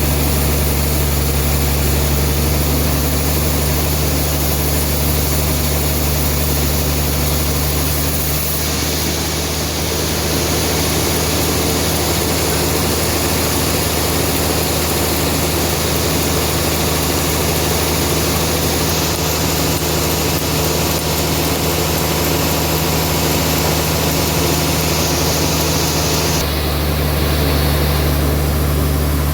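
Band sawmill running with a steady, loud machine hum. The sound changes about a third of the way in and again near the end.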